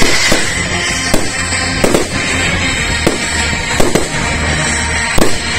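Fireworks shells bursting overhead: about eight sharp bangs at uneven intervals, with music playing throughout.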